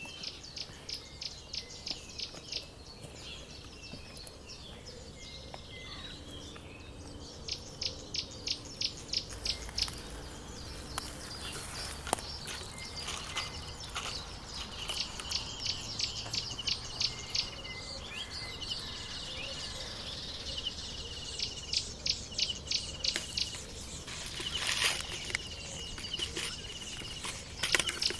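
Outdoor chirping from small wild animals: runs of short, high chirps, about four a second, coming in bursts of a few seconds, with a faint steady high tone between the bursts.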